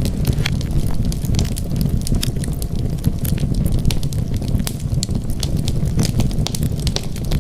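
Wood fire crackling: a steady low rush of burning with frequent, irregular sharp pops and snaps.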